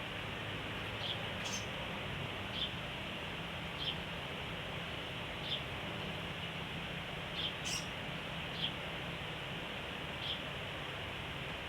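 Caged sogon songbird giving short, single chirps about once a second, with a few sharper clicks, over a steady background hiss and low hum.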